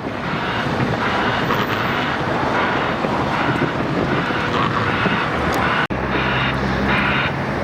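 Loud, steady noise of vehicles running, with a brief dropout a little before six seconds in, after which a low engine hum joins.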